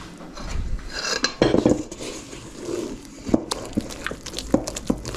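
Spoon mixing a thick flour-and-egg batter in a bowl, scraping at first, then knocking against the bowl in quick irregular clicks from about halfway through.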